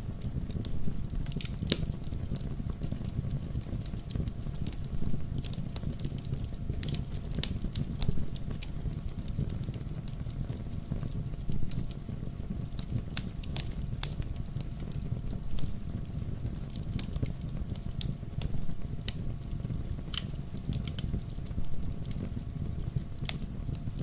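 Wood fire in a fireplace crackling, with irregular sharp pops and snaps over a steady low rush of burning.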